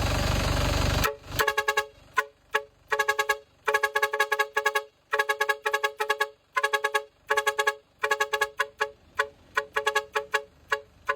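A loud rushing noise for about the first second, then a two-tone horn tooted in quick rhythmic bursts of short beeps, like a tune tapped out on the horn.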